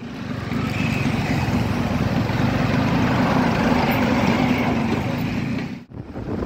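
New Holland 5630 tractor's common-rail diesel engine running steadily as the tractor, carrying a mounted drilling rig, drives along the road. The sound breaks off briefly near the end and then picks up again.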